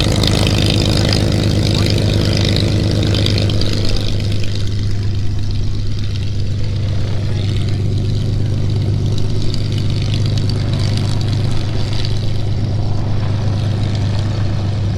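Spitfire's V12 piston aero engine running steadily at low revs, a deep, even drone; a brighter hiss on top of it eases off about four seconds in.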